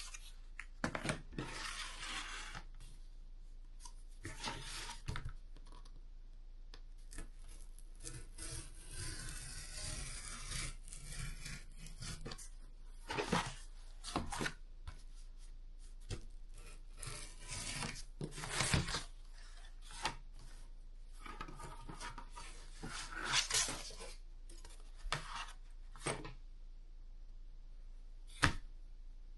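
Cardboard being worked by hand: irregular rasping, rubbing and tearing strokes with a few sharp clicks.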